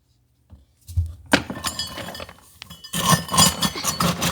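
Dry dog food poured into a bowl: a rattling clatter of kibble hitting the bowl, starting about a second in, with a light ringing of the bowl through it.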